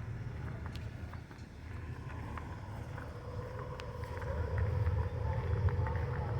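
Car engine running, a low rumble that gets louder about four seconds in, with a faint steady hum and a few small clicks.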